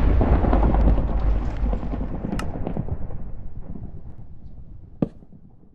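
A deep, noisy blast-like rumble that dies away slowly over several seconds. Two sharp cracks stand out, one a little over two seconds in and one near the end.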